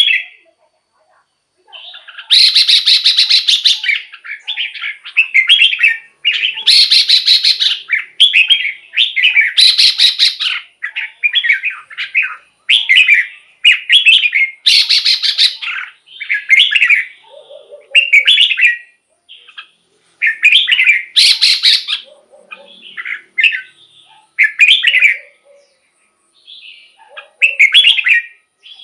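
Red-whiskered bulbul singing, loud and close: a run of short, bright warbled phrases of about a second or two each, with brief pauses between them.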